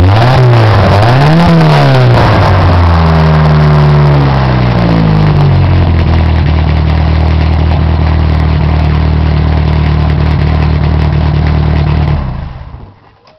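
A 1986 Dodge 600's four-cylinder engine through a Borla Pro XS muffler, blipped twice in quick succession and then falling back to a steady idle. It is shut off near the end.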